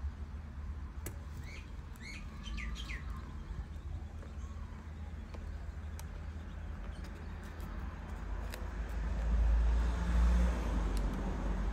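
A small bird chirps a few quick notes about two seconds in, over a steady low rumble that grows louder near the end.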